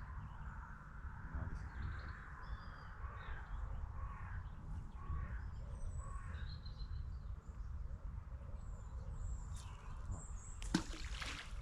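Birds calling and chirping over a steady low rumble, with one brief loud rush of noise near the end.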